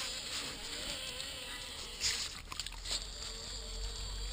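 Small electric motor of an RC crawler truck whining, its pitch wavering up and down with the throttle, with a few sharp clicks and knocks about two seconds in.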